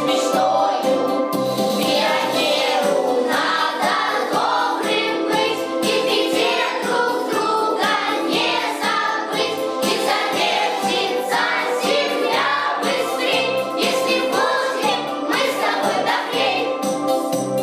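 Choir singing a song over an instrumental backing track with a steady beat.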